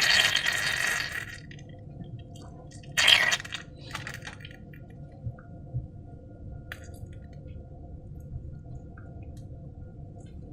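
Wet squishing of slime: a short burst at the start and another about three seconds in, then only a faint low hum with a few small ticks.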